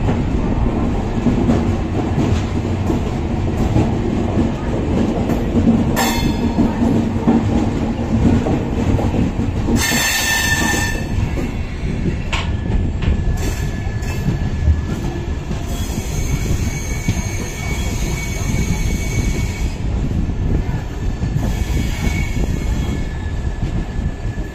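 Express train's coaches running out of the station, heard from an open coach doorway: a steady rumble and clatter of wheels over the rails. A high wheel squeal comes in about ten seconds in and again through much of the second half, as the train takes a curve.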